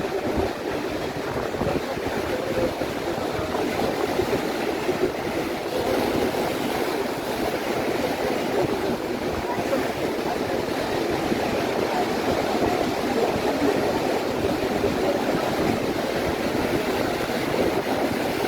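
Atlantic surf breaking and washing up the beach: a steady rushing noise with no clear pauses.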